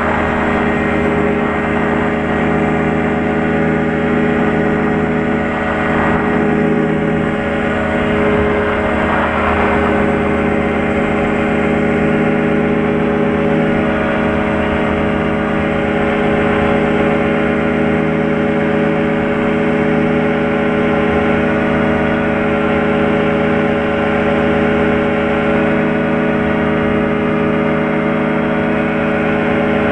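Light aircraft's piston engine and propeller droning steadily in flight, holding one even pitch.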